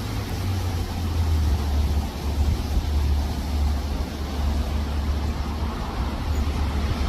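Wind blowing across the microphone: a steady low rumble under an even hiss.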